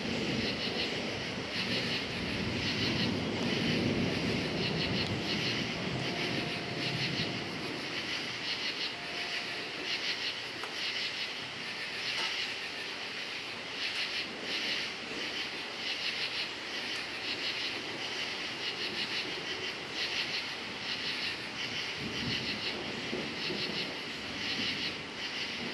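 Crickets chirping in a steady pulsing chorus, with low thunder rumbling over them at the start and again near the end.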